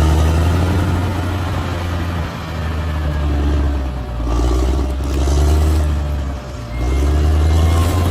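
Large bulldozer's diesel engine working under load, its note rising and easing off several times.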